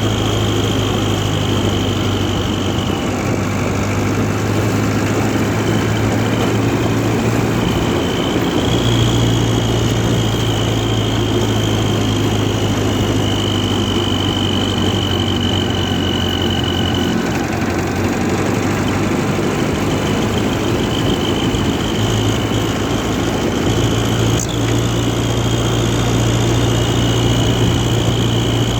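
International Harvester 444 tractor engine running steadily. Its low note eases and comes back a few times, and a faint high whine comes and goes over it.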